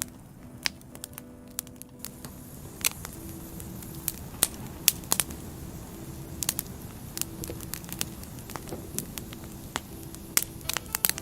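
Burning firewood crackling: irregular sharp pops and snaps over a steady low rumble of the fire, with faint sustained low notes beneath.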